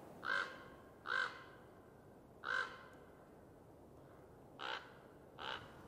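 A bird calling: five short calls, the last two fainter than the first three.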